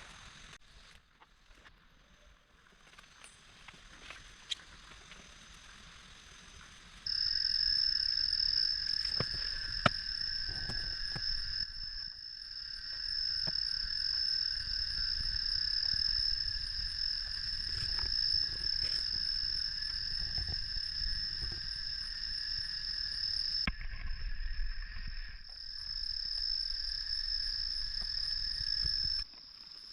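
A steady, high, shrill insect chorus, like crickets trilling, starting abruptly about seven seconds in, over a low rumble. It breaks off briefly a little past the middle and cuts out just before the end. The first seconds hold only a faint background with a few light knocks.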